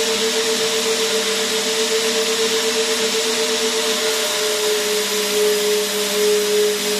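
Vacuum cleaner motor running steadily: an even rushing hiss with a constant motor whine, whose pitch drops slightly about four seconds in.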